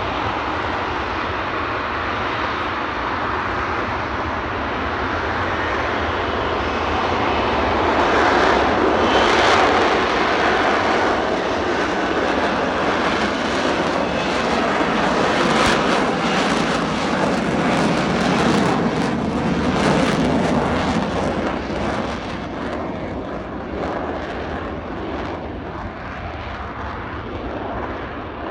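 Military jet aircraft's engine noise as it flies past the crowd: a loud rushing sound that swells about a third of the way in, holds, then slowly fades.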